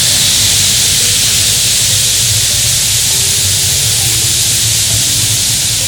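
Waterfall cascades rushing over rock: a steady, loud hiss of falling water with a low rumble underneath.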